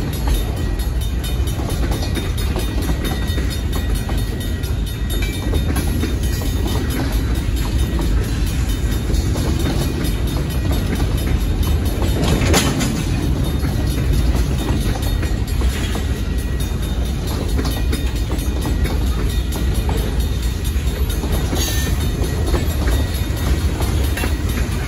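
Freight cars (boxcars and tank cars) rolling past over a street grade crossing: a steady rumble and clickety-clack of steel wheels on the rails, with a few short sharper sounds about halfway through and near the end.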